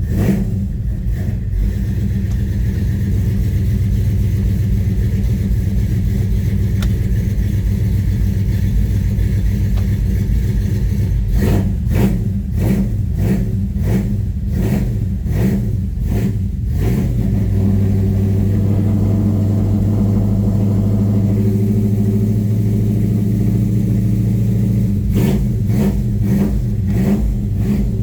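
1970 Chevrolet Chevelle's engine running at idle after a cold start, pulsing unevenly in stretches and settling into a smoother, steadier note for several seconds past the middle.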